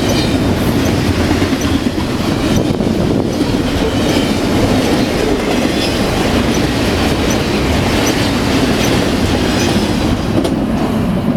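Double-stack container freight train rolling past, a loud steady rumble of steel wheels on the rails with light clicking over the rail joints.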